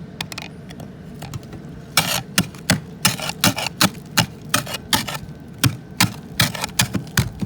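Footsteps crunching on ice-crusted snow left by freezing rain, a steady walking pace of about two to three steps a second, starting about two seconds in after a few light clicks.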